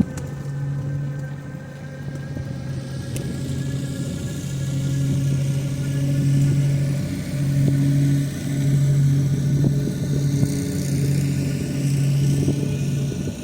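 A steady low motor hum that breaks off and comes back every second or so, over rushing background noise.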